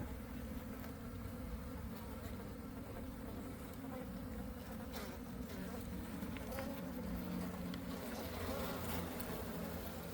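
Honeybees from a disturbed colony buzzing in a steady drone, with a few faint scrapes and clicks.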